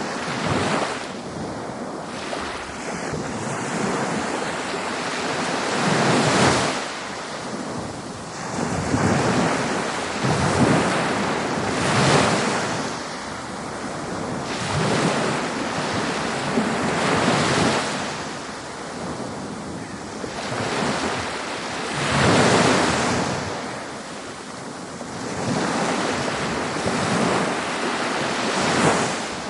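Ocean waves breaking on a beach, the surf swelling and falling back every few seconds in a continuous wash of water noise.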